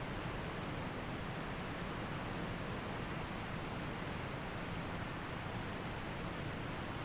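Waterfall rushing, a steady, even noise of falling water with no change throughout.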